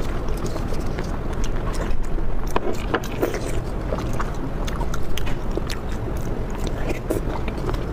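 A person eating close to the microphone: wet chewing and mouth smacks with many short irregular clicks, over a steady low hum.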